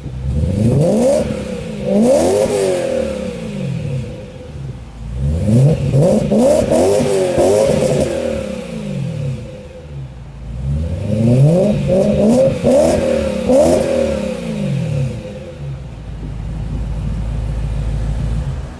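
BMW M3 engine through an aftermarket Akrapovic Evolution exhaust, revved in three rounds of quick throttle blips, the pitch rising and falling several times in each. It settles into a steady low idle near the end.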